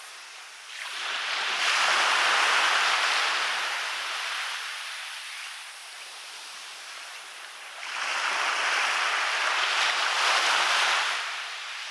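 Waves breaking and washing up a beach, twice: one surge rising about a second in and fading over the next few seconds, and another rising near eight seconds in and falling away just before the end.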